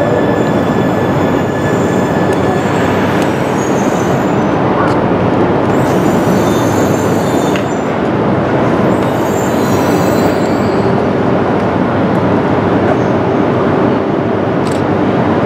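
Train noise on rails: a steady, loud rush and rumble of wheels running, with faint high-pitched squeal now and then.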